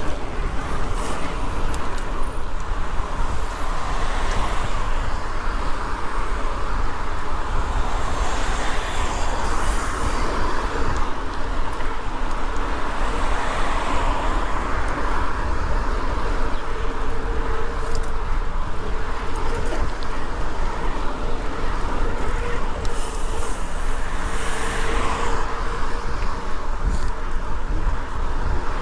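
Steady wind rumble on the microphone mixed with road and tyre noise, unbroken, as from riding a bicycle.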